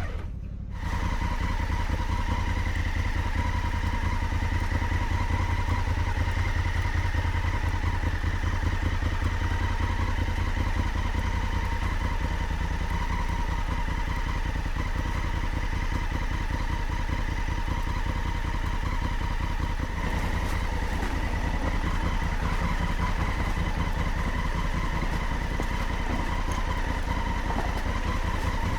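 Honda Africa Twin motorcycle's parallel-twin engine running steadily while being ridden off-road, the sound cutting out briefly near the start.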